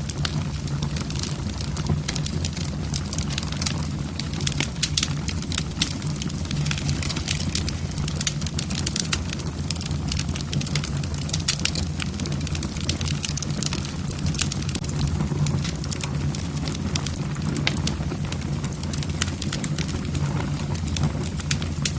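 Wood fire burning in a fireplace, logs crackling with many irregular sharp pops over a low steady rumble.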